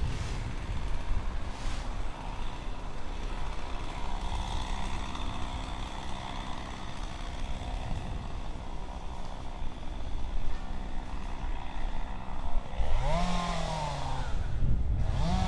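Wind rumbling on the microphone and road noise during an electric unicycle ride, with a faint steady whine. Near the end there are two short pitched sounds that rise and fall.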